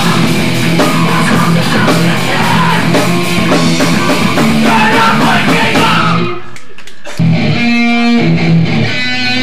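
Hardcore punk band playing live, with loud distorted guitar. About six seconds in the band cuts out for about a second, then the guitar comes back with a chugging riff.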